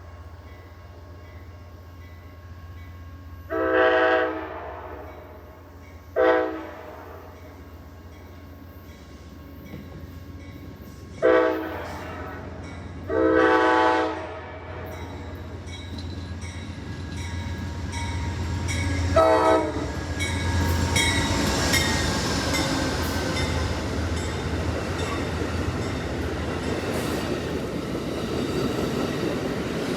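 Amtrak GE Genesis diesel locomotive sounding its horn in five blasts, two long and three short, as it approaches. From about fifteen seconds in, the rumble of the train and its wheels on the rails build up and stay loud as it passes.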